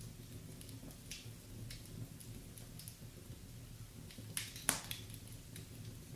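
Wood fire in a fireplace crackling: scattered sharp pops and snaps over a low steady rumble, with two louder pops about four and a half seconds in.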